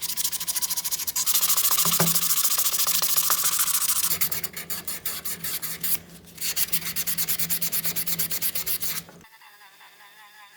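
Abrasive rubbing on the brass of an antique tea box, sanding or polishing the metal in quick, even strokes. It stops abruptly about nine seconds in.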